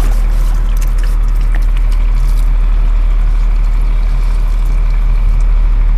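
Water pouring and trickling during a motorbike wash, over a loud, steady low hum.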